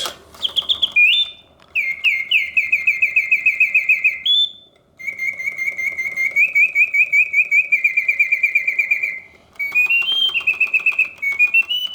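Vintage Reuge double singing bird cage's mechanical birdsong, a bellows-driven whistle set to continuous play. It sings rapid trills and chirps in phrases a few seconds long, broken by short pauses, with notes stepping up and down near the end.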